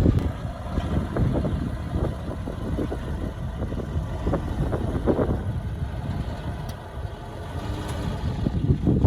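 Heavy diesel earthmoving machinery running with a steady low rumble and scattered knocks. It eases off about seven seconds in and builds again near the end.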